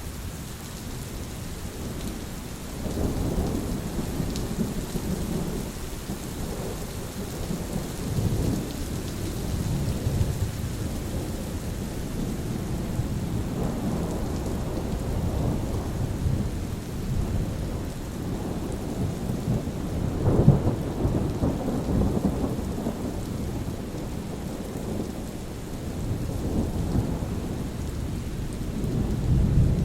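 Steady rain with rolling thunder: several low rumbles swell and fade over the rain, the loudest about two-thirds of the way through.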